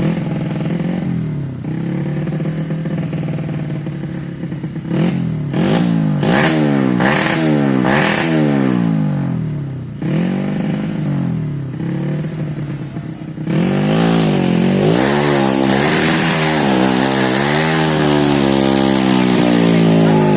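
Off-road motorcycle engine revved over and over, its pitch climbing and dropping about once a second. About two-thirds of the way in it gets louder and holds at a higher, more even pitch.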